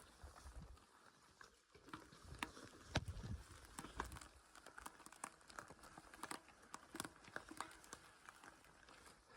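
Faint, irregular small clicks and snaps, scattered unevenly, with a slightly louder cluster about three seconds in.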